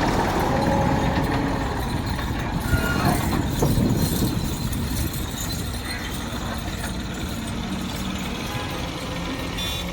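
Massey Ferguson 260 tractor's diesel engine running, louder for the first few seconds and then settling lower, with one sharp knock about three seconds in.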